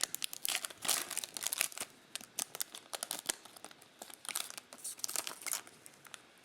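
Foil trading-card pack wrapper being torn open and crinkled by hand: a dense run of sharp, irregular crackles that thins out and stops near the end.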